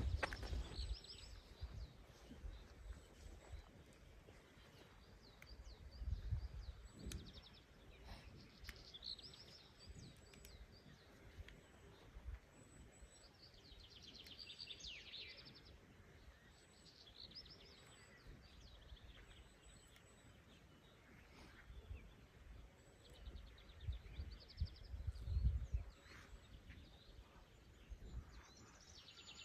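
Songbirds singing, a string of short trilled phrases that come and go, with a few low rumbles about a fifth of the way in and again near the end.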